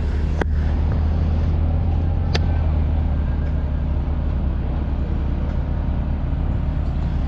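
A vehicle engine idling, a steady low rumble, with two short sharp clicks, one near the start and one about two seconds later.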